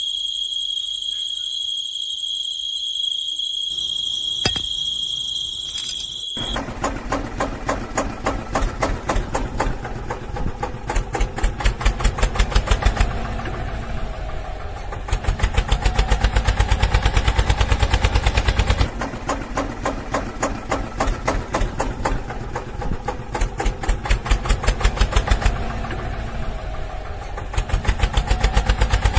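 A steady high-pitched tone, then about six seconds in a fast, knocking engine chug starts. It surges louder and softer in repeated bursts, like a tractor engine being revved.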